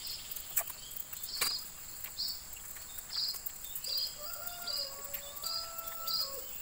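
Insects chirping in a steady rhythm, a chirp every second or less, over a high steady insect drone. Two sharp knocks come in the first second and a half, from bamboo being worked with a machete. From about four seconds in there are long, level whistled notes.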